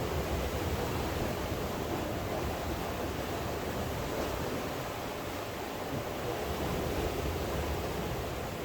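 Steady, unbroken rush of rain and sea surf.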